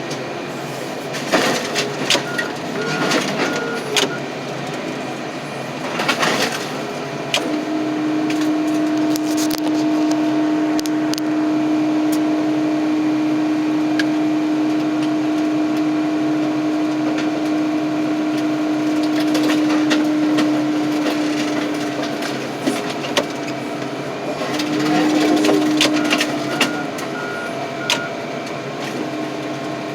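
Car crusher flattening steel truck frames. A steady hydraulic hum under load runs through the middle, with scattered cracks and pops of metal breaking, mostly near the start and near the end. Two short runs of high beeps sound, one early and one near the end.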